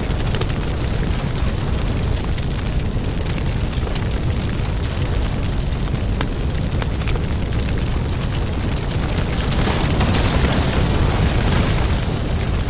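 Wood fire burning in a fireplace: a steady low rumble of flames with many small, sharp crackles and pops from the burning logs, the hiss swelling somewhat near the end.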